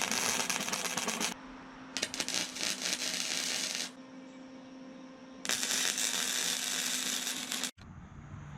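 Arc welding on steel exhaust pipe: the welder crackles in three bursts of a second or two each, with short pauses between beads, as the tacked joints are welded up.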